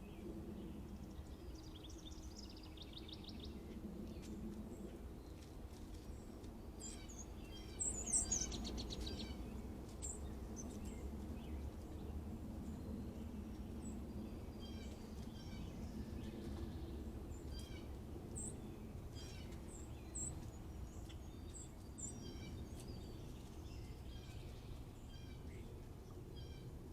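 Several small birds chirping and singing in short repeated calls, with a rapid trill a few seconds in and a louder burst of calls about eight seconds in, over a steady low background rumble.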